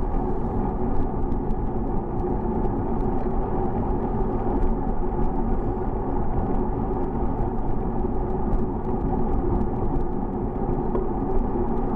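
Steady wind and road rumble from a moving bicycle, with frequent small rattling ticks from the bike.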